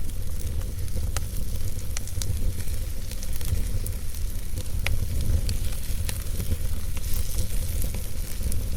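Wood fire burning in a fireplace, crackling with a high hiss and scattered sharp pops every second or so, over a steady low rumble.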